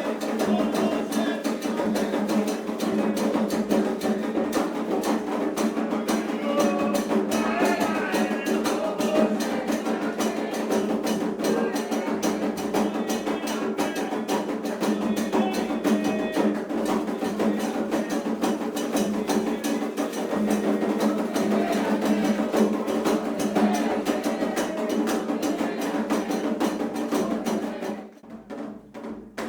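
Percussion-led music: a dense, fast, even run of drum and bell-like strikes, with voices singing over it. It stops abruptly near the end.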